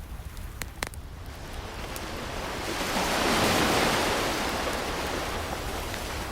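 An ocean wave swelling, breaking and washing back, building over a couple of seconds to its loudest in the middle and then slowly fading. A couple of sharp crackles from a wood fire come just before it.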